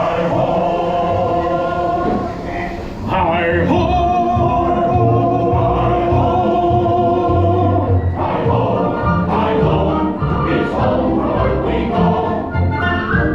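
Music with a choir singing long held notes; the music shifts to a new passage about three seconds in.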